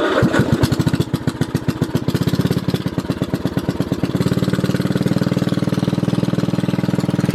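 Yard Machines riding lawn mower engine just started cold with the key: it fires unevenly at first, then settles into a steady idle about four seconds in.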